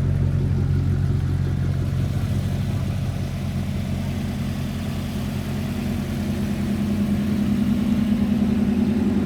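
Car engine running at a low, steady speed, then brought up to a somewhat higher, steady speed a few seconds in and held there, a little louder toward the end.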